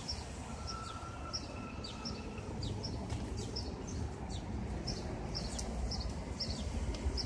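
Small birds chirping: short high chirps repeating about twice a second, with a faint held whistle in the first two seconds, over a low steady outdoor rumble.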